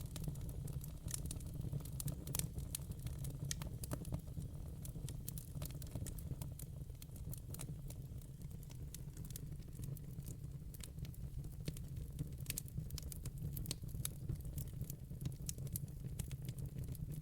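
Wood fire burning in a fireplace: logs crackling with frequent sharp, irregular pops and snaps over a low steady rumble of the flames.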